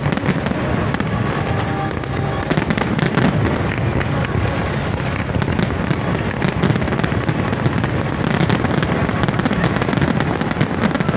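Fireworks display going off in a dense, continuous run of bangs and crackles, with no let-up.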